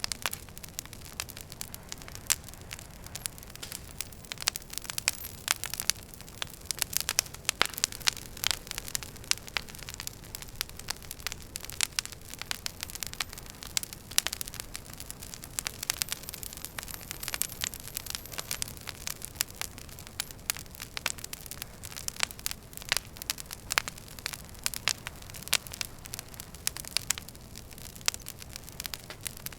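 Wood fire crackling in a fireplace: a steady soft hiss under irregular sharp pops and snaps, with a faint thin high whistle around the middle.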